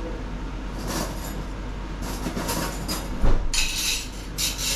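Cutlery and plates clinking and scraping at a meal table, with one louder knock a little past three seconds in and two short bursts of rattling soon after.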